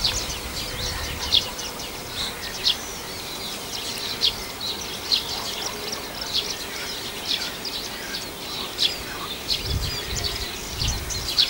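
Small songbirds chirping, many short high notes scattered all through, over a faint low rumble that swells about ten seconds in.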